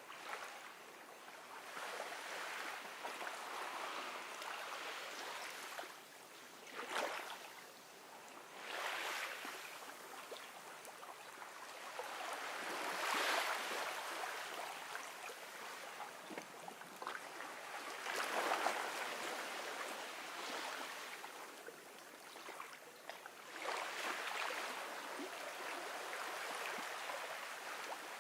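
Gentle ocean waves washing onto a beach, one surge every few seconds, each swelling and then easing off as it draws back.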